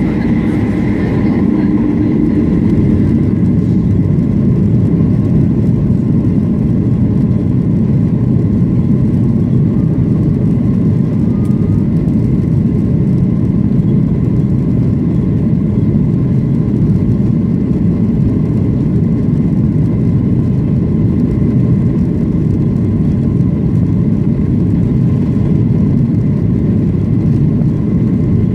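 The Boeing 737-800's CFM56-7B jet engines running with a loud, steady rumble, heard from inside the passenger cabin. A faint high whine sits on top and fades over the first couple of seconds.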